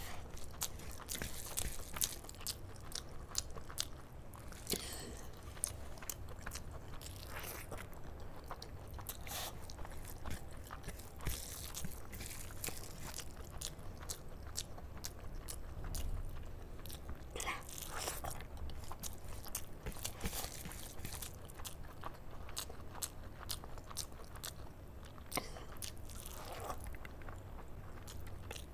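Chewing and wet mouth sounds of a person eating handfuls of rice mixed with palak paneer by hand: steady smacking with many short clicks and some crunching.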